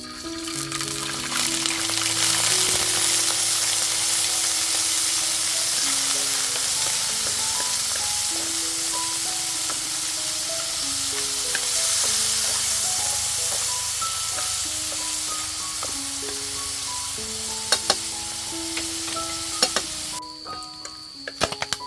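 Food frying in hot oil with a loud, steady sizzle that stops suddenly near the end, followed by a few sharp clicks.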